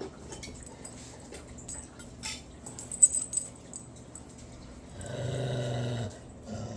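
Bully-breed dog's low, rumbling purr-like growl, swelling into one louder, steady-pitched rumble about five seconds in that lasts about a second. A few sharp clicks come around the third second.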